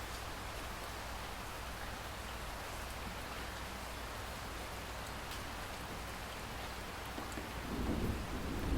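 Steady rain falling, with a few single drops ticking. Near the end a low rumble of thunder starts to build.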